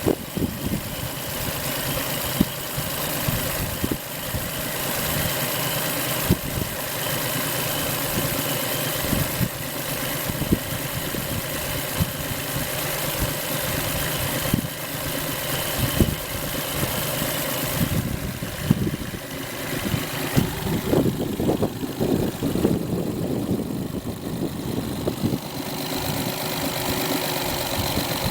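Suzuki-built Johnson 40 hp four-stroke fuel-injected outboard running steadily at idle, its note shifting a little in the second half.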